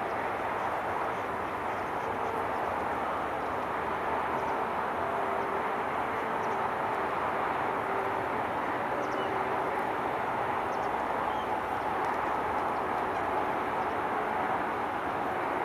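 Steady hum of distant road traffic, even in level throughout, with a few faint drifting engine tones.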